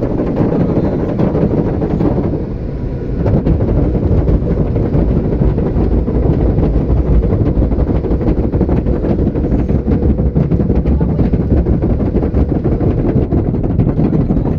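Car wash blower dryer running steadily, with a short dip in level about two seconds in.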